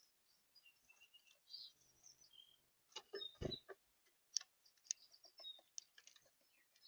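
Small birds chirping at a feeder, short high calls scattered throughout, with light clicks and a louder knock about three and a half seconds in.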